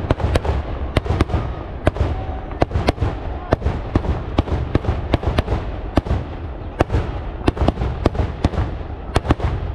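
Daytime fireworks going off in a rapid, irregular barrage of sharp bangs, about three or four a second, over a steady low rumble.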